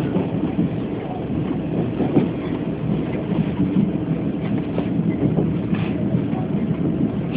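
Steady rumble of a Chu-Kuang Express passenger train running along the rails, heard from inside the carriage.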